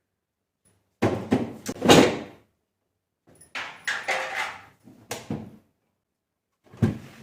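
Refrigerator door and fittings being handled: several sudden thuds and knocks in bursts, the first about a second in.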